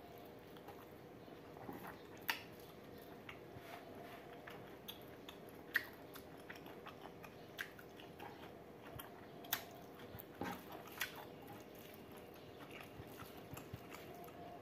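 Someone biting and chewing pork curry with rice close to the microphone: scattered sharp crunches and clicks, the loudest about two, six and nine and a half seconds in, over a faint steady hum.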